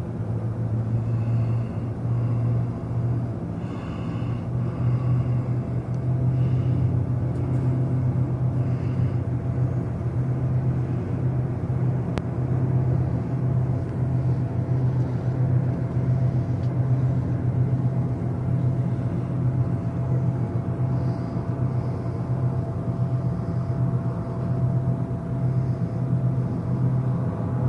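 A large ship's machinery runs with a deep, steady hum and rumble while berthing. A few faint, short high-pitched sounds come through in the first third.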